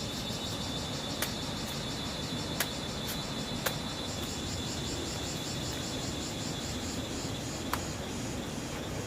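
Steady, finely pulsing chorus of insects such as crickets, with a handful of sharp clicks or snaps scattered through it, the loudest a few seconds in.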